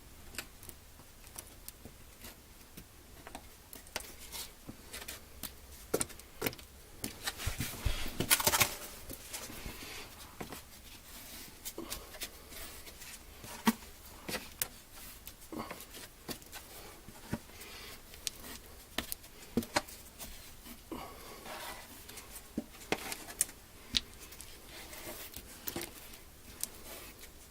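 Scattered light knocks and clicks of hand work with tools and materials, with a short rustling hiss about eight seconds in.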